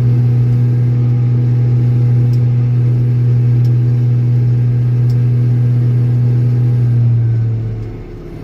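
Old Steiger four-wheel-drive tractor's diesel engine running steadily under power, then slowing with a falling pitch and going quieter near the end.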